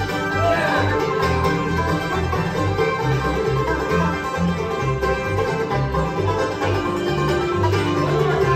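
Bluegrass band playing: banjo and guitar picking over steady low bass notes on the beat.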